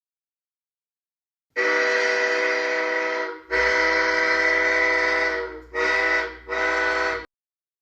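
Locomotive horn sounding four blasts of a multi-note chord: long, long, short, long, the standard grade-crossing signal.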